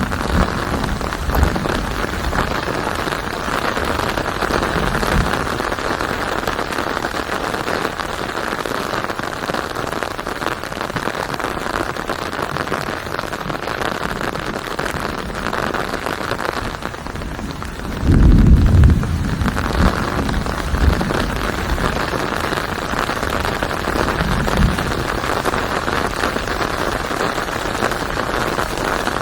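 Steady rain falling as an even hiss. A louder low rumble comes about two-thirds of the way through, with fainter low swells now and then.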